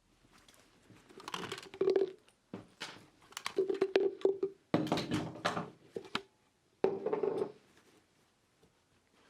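Small objects being handled and put down on a hard surface: bursts of clicks, taps and rustling, with a pause just under a second in and again near the end.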